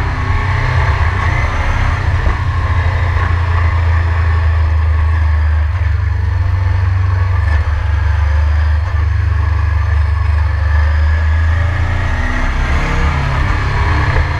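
Ducati 996's V-twin engine running at fairly steady revs with a deep exhaust note, its pitch shifting slightly about twelve seconds in.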